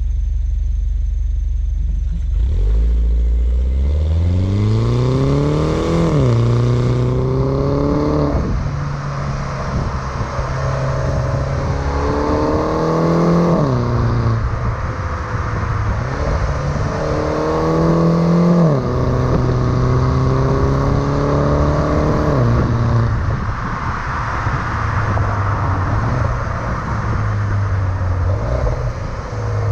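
A 2009 Mini Cooper S (R56) 1.6-litre turbocharged four-cylinder, steady at first, then pulling away under acceleration. The engine note climbs and drops abruptly several times as the six-speed automatic shifts up, then settles into steadier running with road noise.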